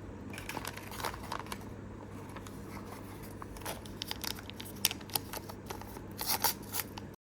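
Thin plastic packaging crinkling and tearing close to the microphone, as a toy blind bag is handled and ripped open: irregular rustles and sharp crackles, louder near the end, then the sound cuts off suddenly.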